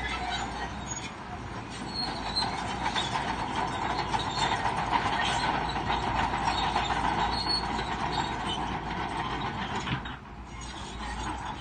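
Crawler bulldozer running, its steel tracks clanking and squealing steadily, easing off briefly near the end.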